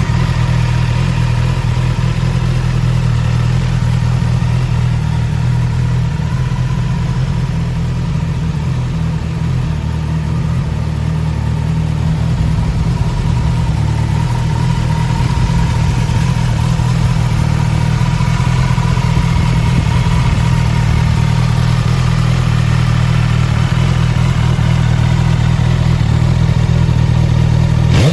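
Suzuki Katana's four-cylinder engine idling steadily, with no revving.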